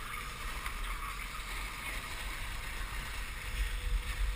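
Steady hiss of dogsled runners gliding over a snow trail, with a low wind rumble on the microphone.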